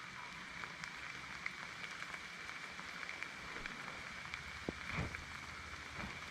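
Light rain falling, with scattered drops ticking close to the microphone.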